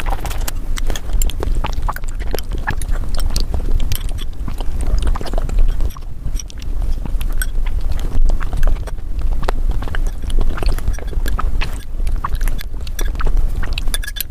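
ASMR eating sounds of someone eating palak paneer, sped up several times: a dense, rapid stream of chewing and mouth clicks.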